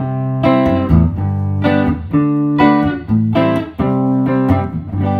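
A 1979 Gibson Les Paul Custom electric guitar on its neck pickup, played clean through a Fender Hot Rod DeVille 4x10 tube amp with a touch of reverb. It strums a run of ringing chords about twice a second, with the nice bassy tone of the neck pickup.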